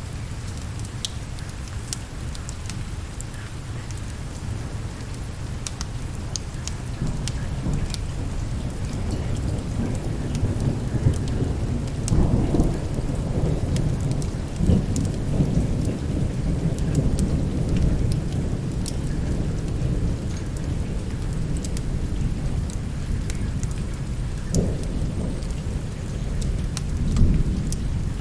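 Steady rain with rolling thunder: the deep rumble builds about a quarter of the way in, swells to its loudest about halfway, and rises again twice near the end. Scattered sharp crackles run through it.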